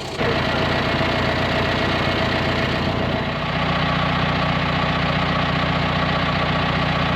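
Farm tractor engine running steadily. About three seconds in, a steadier low hum and a higher steady tone set in over it.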